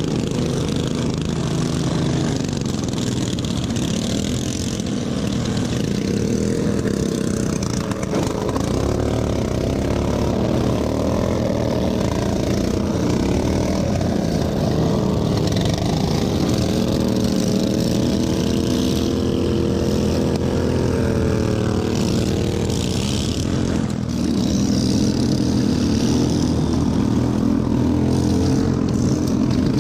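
Racing lawn tractor's small engine running hard, its pitch rising and falling as the throttle changes.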